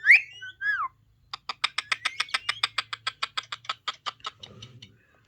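Indian ringneck parrot calling. It gives a short whistle that rises and then falls, then a fast run of clicking chatter, about eight clicks a second, for roughly three seconds.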